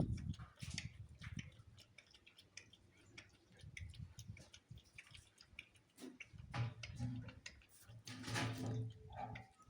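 Small dog lapping milk, a run of faint, quick, wet clicks.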